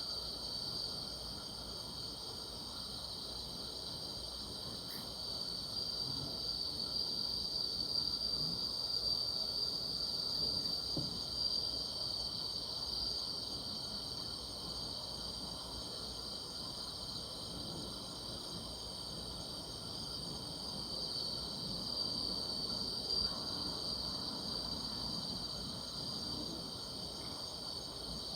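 Night chorus of grass insects singing together, a steady high-pitched sound that holds without a break.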